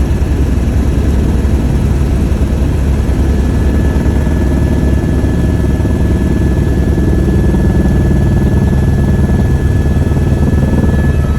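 Helicopter in flight: steady rotor chop and engine noise.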